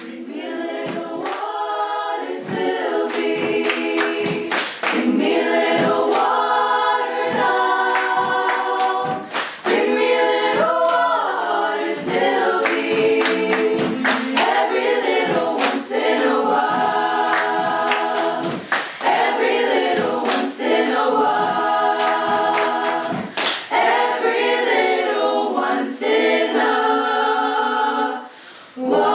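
A group of voices singing together, holding chords in long notes, with a short break near the end.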